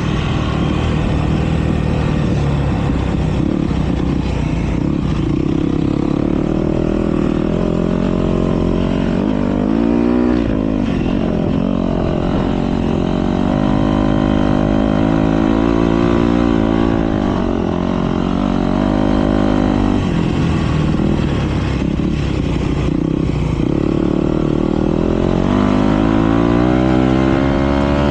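Motocross motorcycle engines racing, revving up and dropping back again and again as the bikes ride the track.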